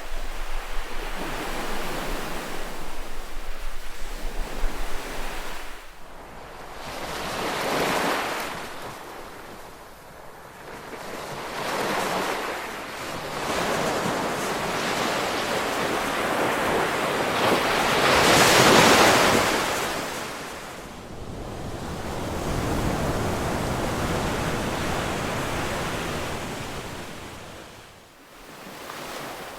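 Ocean surf: waves breaking and washing up the shore in a continuous rush that swells and falls back every few seconds, the biggest wave about two-thirds of the way through.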